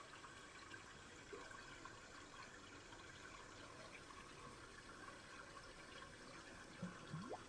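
Faint, steady babbling of a shallow river. Near the end a brief rising sound cuts through the water noise.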